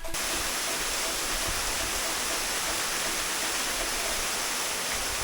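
Waterfall's falling water, a steady, even rush with no change in level.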